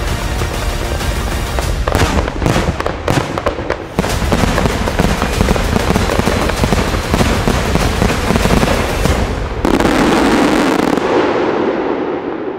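Aerial fireworks barrage: dense bursts and crackling, with a heavier stretch about ten seconds in before it dies away near the end.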